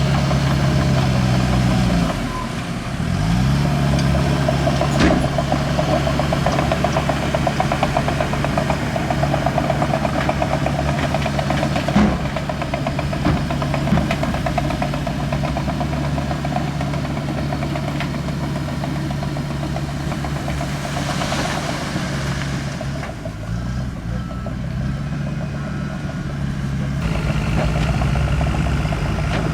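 Diesel engine of a heavy earthmoving machine running, revving up a couple of seconds in and dipping then rising again near the end. A few sharp knocks and a brief hiss about two-thirds through.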